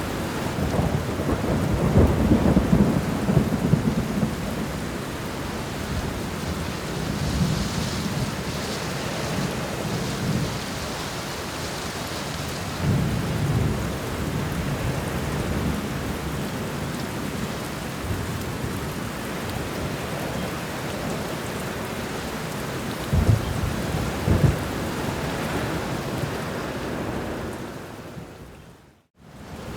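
Steady rainfall with thunder rumbling low and rolling several times: in the first few seconds, about halfway through, and again near the end. Everything fades out to silence for about a second just before the end, then comes back.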